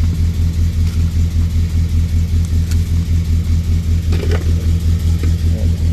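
Morris Minor's 1275 cc A-series four-cylinder engine (from an MG Midget, on a single SU HS4 carburettor) idling steadily on choke, still cold after starting, with an even pulsing exhaust beat.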